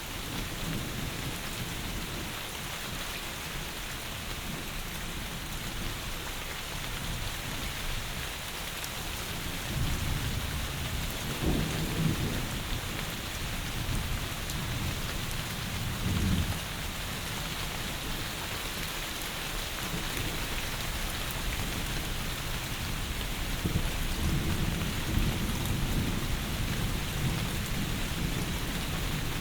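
Heavy rain falling steadily, with low rumbles of thunder swelling about ten seconds in, again a few seconds later, and once more near the end.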